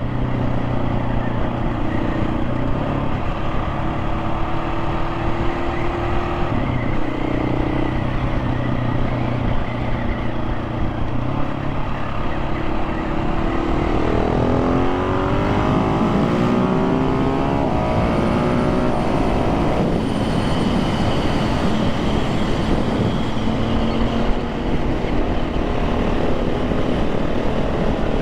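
KTM 690 SMC R single-cylinder engine on the move, running at a held pitch that steps between gears for the first dozen seconds, then rising steeply about halfway through as the bike accelerates hard, before settling to a steady cruise.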